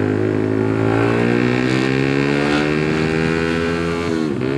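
Suzuki GSX-R150's single-cylinder engine pulling under load, its pitch rising slowly, then dipping sharply and picking up again near the end.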